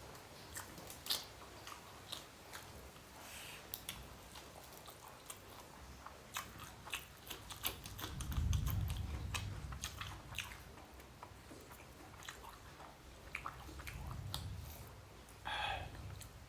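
A person eating rice and curry by hand: close, wet chewing and mouth smacks with many small irregular clicks. A low rumble comes about halfway through and is the loudest part, with a weaker one near the end.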